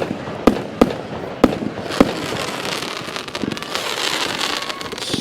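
Fireworks going off: several sharp bangs in the first two seconds, then a dense, sustained crackling as the shells burst into crackle stars.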